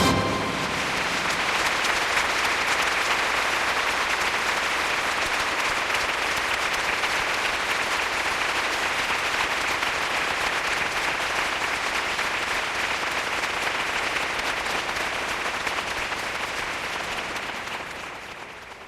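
Steady heavy rainfall, a dense even hiss that fades out near the end.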